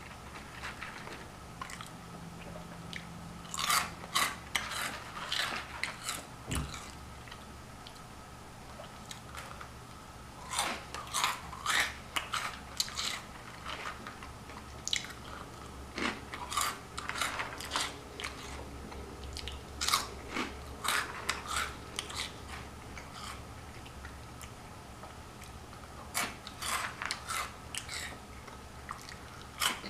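Close-up crunching and chewing of crunchy fried food, a taquito's shell or Flamin' Hot Cheetos, in clusters of bites every few seconds with a faint steady hum underneath.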